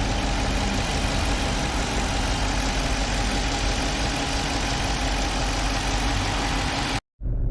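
5.7-litre V8 engine idling steadily after a top overhaul to cure a lifter and camshaft knock. About 7 s in the sound cuts out briefly, and a duller steady rumble follows.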